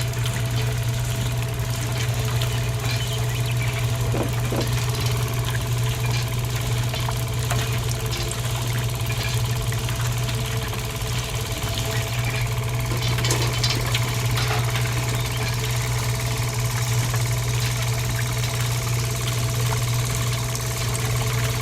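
A small motor running steadily with a constant low hum and a light rattle, and a few faint clicks over it.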